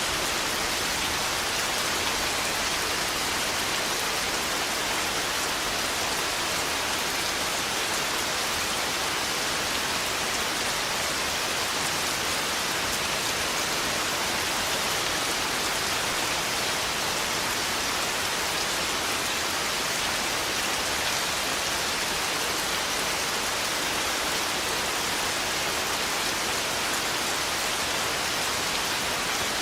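Steady heavy rain, an even hiss of rain falling with no thunder.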